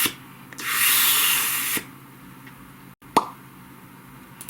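A hissing rush lasting about a second, then, a little over halfway through, a single sharp pop.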